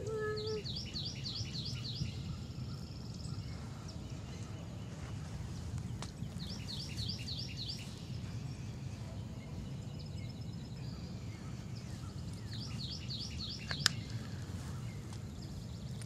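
A songbird singing the same quick phrase of six or seven rapid high notes three times, about six seconds apart, over a steady low background rumble. A single sharp click sounds near the end.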